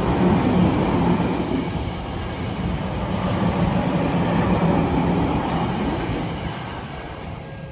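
Tokyu Toyoko Line train running past over the level crossing, a loud rumble of wheels on rail with a thin high wheel squeal about three seconds in. The noise fades away over the last couple of seconds as the train moves off.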